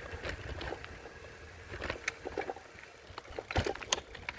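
Ride noise from a folding e-bike on the move: a low wind rumble on the microphone that eases off midway, then a few sharp clicks and knocks from the bike near the end.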